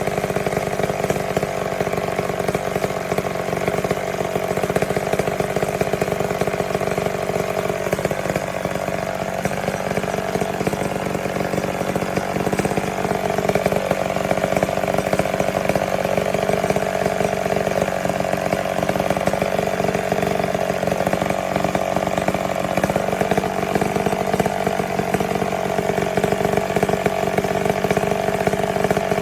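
McCulloch Mac 10-10 two-stroke chainsaw running at speed, its pitch dipping and recovering several times as it cuts wood.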